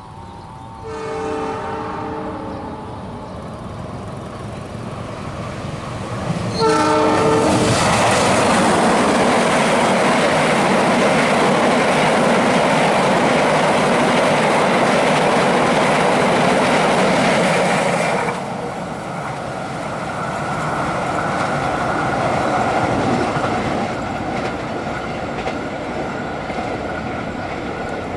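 A train horn sounds a chord-like blast about a second in and again near 7 s, as a speeding train approaches. The train then rushes past with loud wheel clatter for about ten seconds. This drops off suddenly into a quieter, steady running sound.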